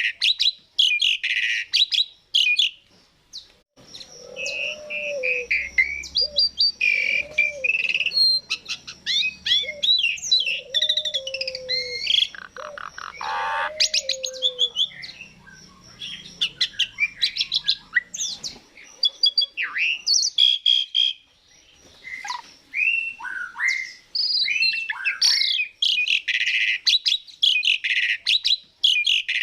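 Asian pied starling (jalak suren) singing a long, varied song of loud whistles, chirps and slurred notes. For several seconds from about four seconds in, lower arched whistles run beneath it, with a quick rattle of notes partway through. This is a song used as a lure to set other starlings singing.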